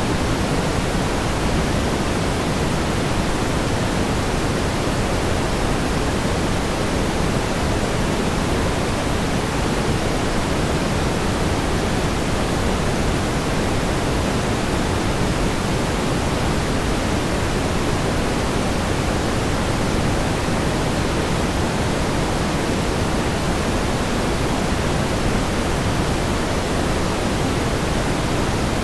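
Steady pink noise: an even, unbroken hiss, fuller in the low end than in the highs, with no change in level.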